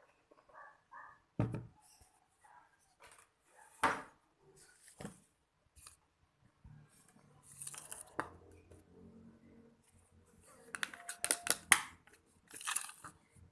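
Scattered clicks, taps and rustling of small objects being handled, with a quick run of sharp clicks about eleven seconds in.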